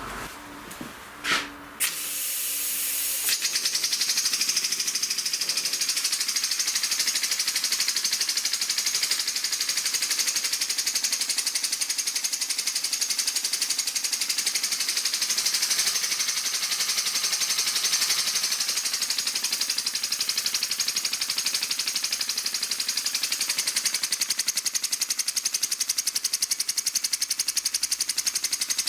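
Homemade wooden single-cylinder compressed-air engine running fast: a rapid, steady mechanical chatter with air hissing. The air hiss comes on about two seconds in and the engine picks up speed about a second later. The hiss fits its leaky slide inlet valve.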